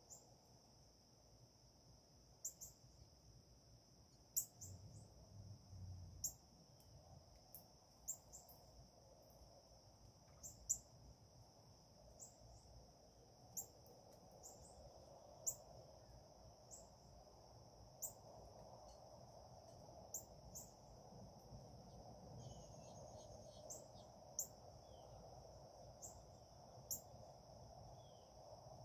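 Faint outdoor ambience: a steady high insect drone under short, sharp, high-pitched bird chips that come every second or two, with a few brief lower bird calls about two-thirds of the way through.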